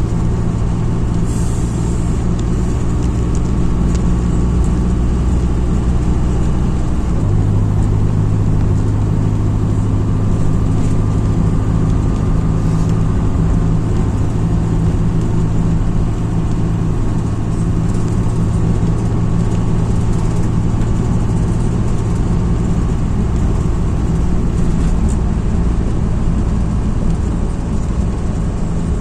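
MAZ-206 city bus driving: its diesel engine runs steadily under road noise, and the engine note drops to a lower, steady pitch about seven seconds in.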